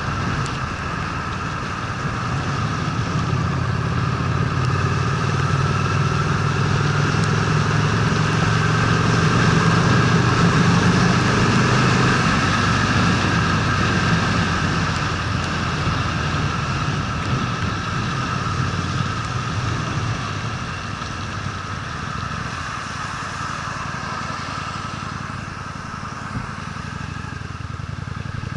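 Honda Steed's V-twin engine running on the move. The note holds steady, then eases off about twelve seconds in, over a steady rushing noise.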